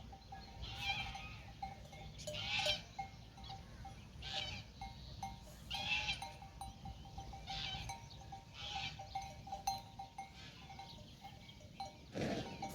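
Metal neck bells clanking irregularly on a grazing flock of sheep or goats, with a steady ringing tone and a strike every second or two, and an animal bleating near the end.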